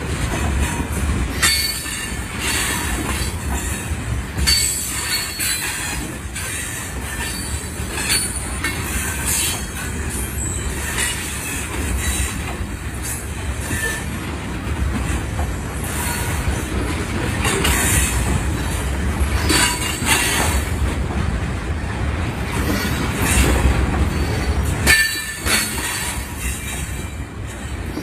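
Freight train of loaded oil tank cars rolling past, a steady low rumble with wheels clicking over rail joints and brief wheel squeals, the clearest near the end.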